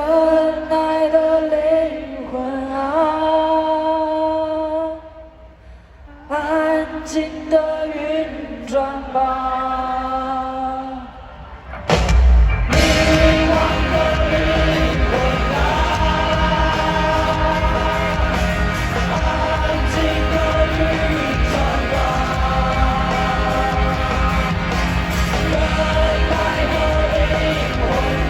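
Live rock band playing: a quiet passage of held melodic notes, then about twelve seconds in the full band with drums and bass comes in loud and dense.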